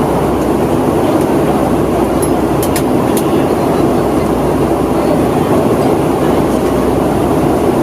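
Steady cabin noise inside a Boeing 757-200 in flight: a constant rush of airflow over the fuselage mixed with the drone of its Rolls-Royce RB211 engines.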